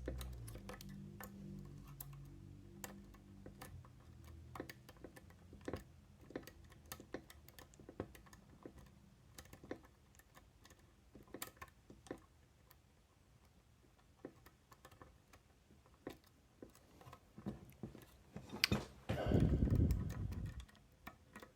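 A pick and tension tool working the wafers of a Miwa DS wafer lock, making irregular small metallic clicks and ticks. Near the end there is a louder click followed by a short scraping rumble.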